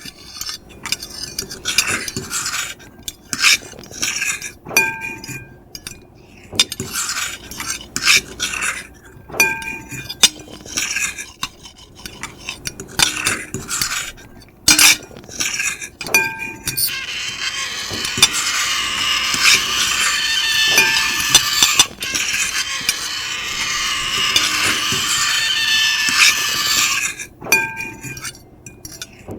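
Metal fork and knife scraping and clinking on a plate: short strokes, many of them leaving a brief ringing tone from the plate, then about ten seconds of continuous high scraping from a little past halfway, then short strokes again near the end.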